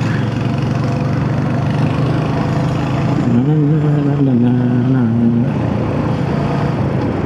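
Royal Enfield Hunter 350's 349 cc single-cylinder engine running steadily under way. The engine note rises about three seconds in and settles back a couple of seconds later.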